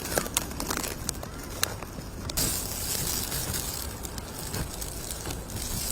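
Outdoor street ambience: a steady low rumble with scattered sharp clicks, changing abruptly to a brighter hiss about two and a half seconds in.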